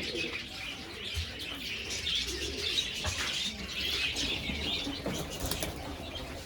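Homing pigeons cooing in a loft, low wavering calls over steady chirping from smaller birds, with a few brief wing flaps.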